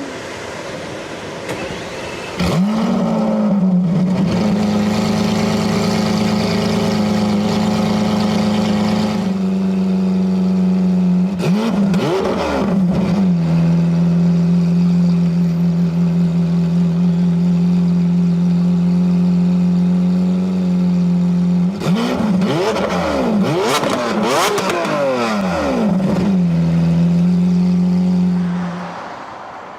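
A performance car's engine starts through a loud aftermarket exhaust about two seconds in and settles into a high idle that drops a little after a few seconds. It is blipped a couple of times around the middle and several more times near the end, and the idle then fades out.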